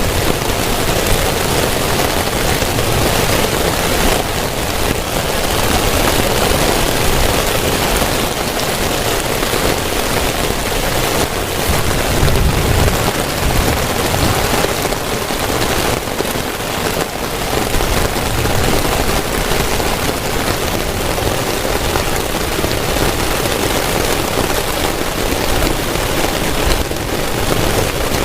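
Heavy rain falling steadily and densely, with a brief low rumble swelling about twelve seconds in.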